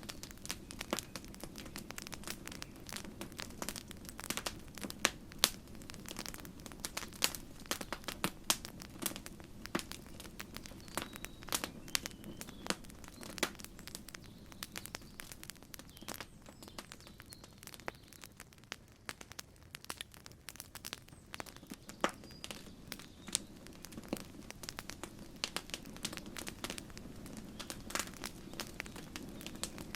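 Wood campfire crackling, with frequent irregular pops and snaps of varying loudness over a steady low rumble of the burning fire.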